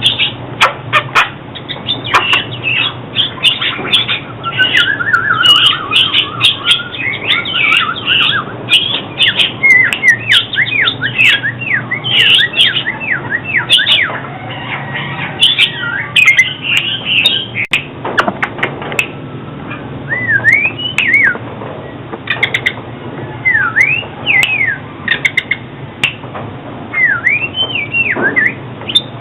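Oriental magpie-robin singing: a fast, varied run of whistled notes sweeping up and down, mixed with sharp clicking notes. Past the middle the song thins into sparser, separate swooping whistles.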